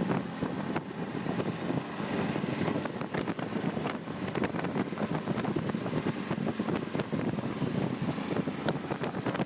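Motorboat running under way, with wind buffeting the microphone in irregular gusts.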